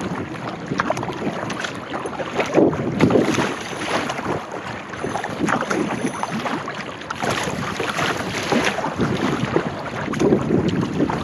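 Kayak paddle strokes dipping and splashing in the water, a swell of splashing every second or so, over steady wind noise on the microphone.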